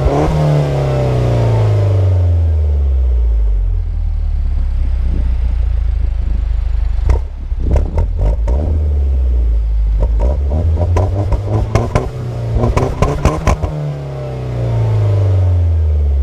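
Peugeot 208 GTi by Peugeot Sport's turbocharged 1.6-litre four-cylinder, heard through an Inoxcar aftermarket rear silencer, dropping back from a rev to idle. In the middle come two clusters of sharp pops and cracks from the exhaust, and near the end another rev falls away.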